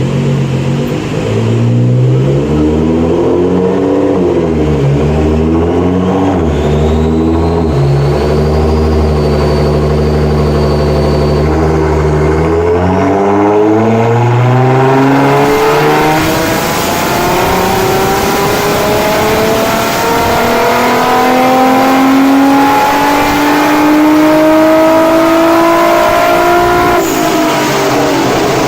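Nissan GT-R R35's twin-turbo 3.8-litre V6, breathing through a catless downpipe and straight 3.5-inch exhaust, running loud on a dyno. Its revs go up and down a few times and then hold steady, and from about halfway in they climb steadily for some fifteen seconds before falling off sharply near the end.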